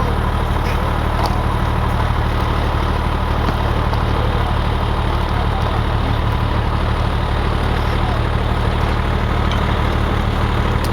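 Fire engine's diesel engine running steadily at a constant low idle-like hum, with no change in speed.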